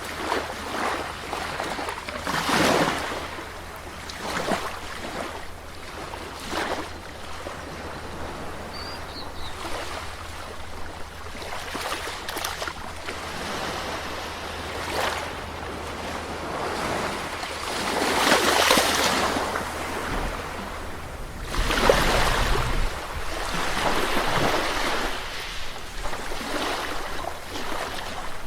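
Sea waves washing onto a shore, a continuous surf wash with swells breaking every few seconds, the largest near the middle and past two-thirds of the way.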